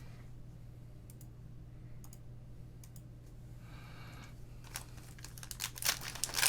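Light, scattered clicks of trading cards being handled and sorted, building near the end into a denser run of clicking and crinkling as card packs and their wrappers are handled.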